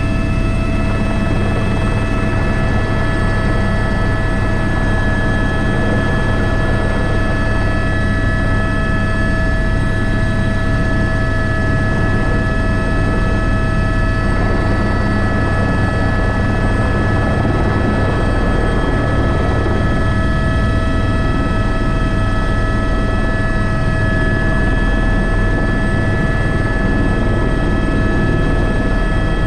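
Airbus H125 helicopter running steadily in flight: a constant low rotor throb with a steady high turbine and gearbox whine over it, unchanged throughout.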